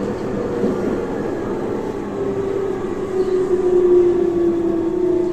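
Tobu 30000 series train's Hitachi IGBT VVVF inverter and traction motors whining under braking, over wheel-on-rail running noise. The whine slowly falls in pitch as the train slows into the station.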